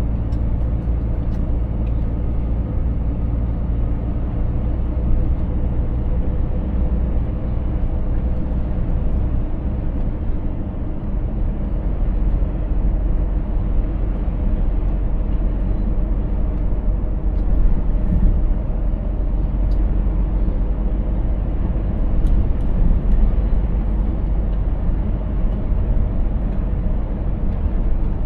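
Scania 500S truck's 13-litre straight-six diesel running steadily under way, a deep drone with road noise; the drone drops lower about eleven seconds in.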